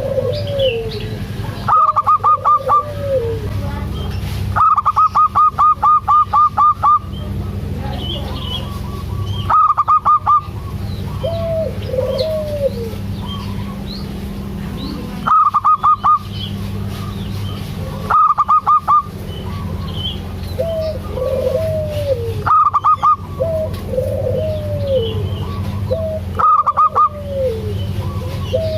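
Local zebra dove (perkutut) cooing: short arched coos repeated every few seconds. About seven loud bursts of rapid, evenly spaced clicking notes come between them, the longest lasting about two seconds. A steady low hum runs underneath.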